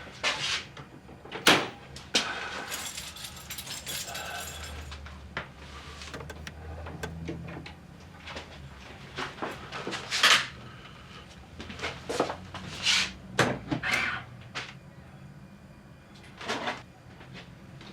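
A series of sharp knocks and clacks, the loudest about a second and a half in and again near the middle, over a steady low hum.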